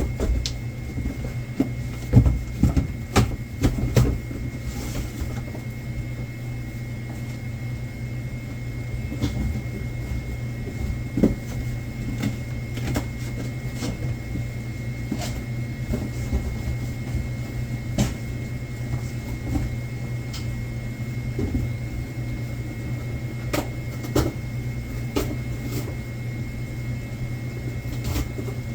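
Goods and packaging being handled while stock is sorted, giving scattered clicks and knocks that come thickest in the first few seconds, over a steady electrical hum with a faint high whine.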